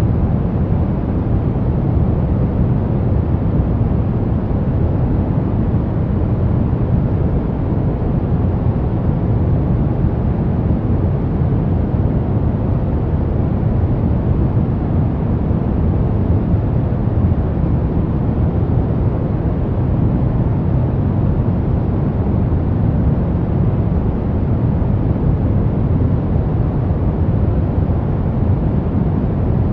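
Steady pink noise: an even, unbroken hiss that is strongest in the low end and fades toward the top, with no changes.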